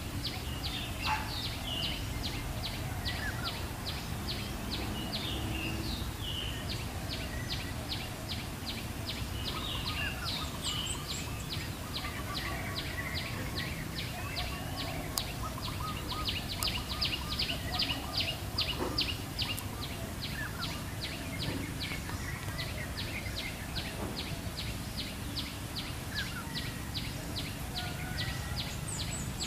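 Wild birds giving short scattered calls and chirps over an even series of short, high clicking notes about three a second. A low rumble of background noise runs underneath.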